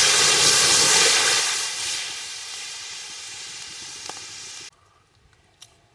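Loud sizzling from a hot cooking pot over a wood fire. It is strongest for the first couple of seconds, then dies down and cuts off suddenly near the end.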